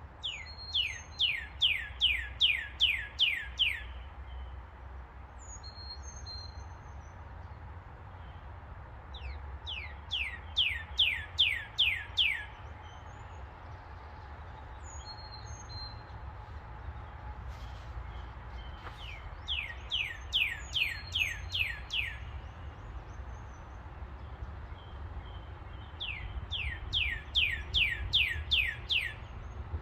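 A songbird singing four phrases, each a quick run of about eight clear whistled notes that slide down in pitch, repeated roughly every eight seconds. Fainter chirps from other birds come between the phrases, over a steady low rumble.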